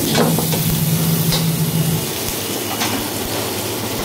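Chili chicken frying in a hot pan, a steady sizzle and hiss, over a constant low hum that drops lower about halfway through. There are a couple of faint light scrapes.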